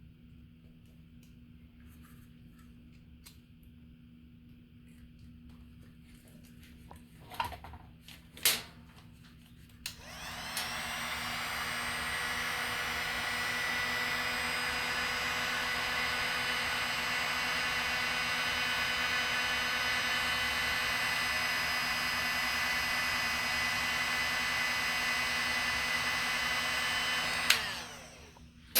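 Handheld hot-air heat gun switched on about ten seconds in and running steadily with a whining fan for some seventeen seconds, shrinking heat-shrink tubing tight onto the part, then switched off with a click near the end. A couple of small clicks come before it starts.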